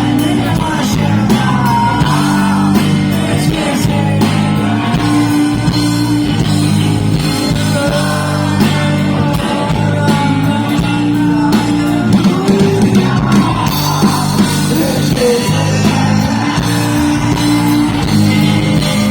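Live rock band playing an electric guitar solo over steady low chords, with bending, wavering lead notes and some singing mixed in.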